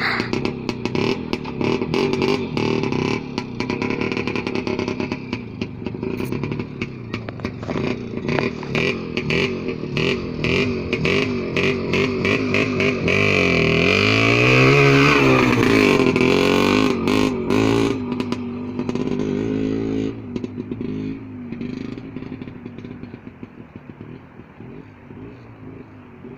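Motorcycle engine running, revving up and back down about halfway through, then fading away as it moves off.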